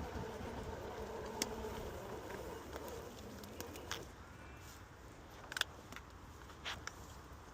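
Exway Wave electric skateboard's motor whining steadily over wheel rumble, dying away about four seconds in; a few sharp clicks follow.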